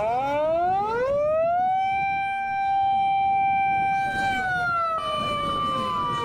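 Fire engine siren wailing: the pitch rises over about a second and a half, holds steady for a couple of seconds, then slowly falls away. A second siren tone, higher and steady, comes in about five seconds in.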